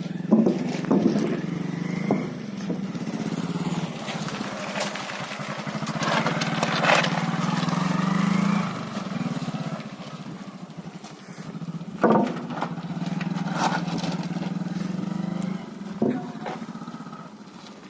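A motor vehicle's engine running steadily close by, swelling and easing a few times, with several sharp knocks or clatters along the way.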